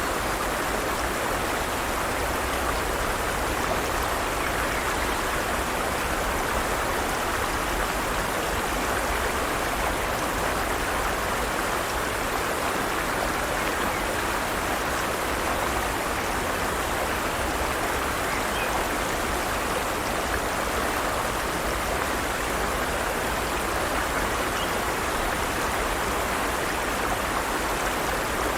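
Forest stream: water running steadily over rocks, an even rushing with no breaks.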